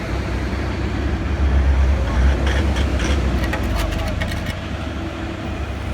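Heavy vehicle engine running with a deep rumble that swells about two seconds in and then slowly eases, with a run of light clicks and knocks in the middle.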